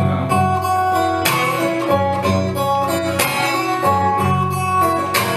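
Solo acoustic guitar playing a blues figure, picked treble notes over a bass line, with a sharper strum about a second in and another near the end.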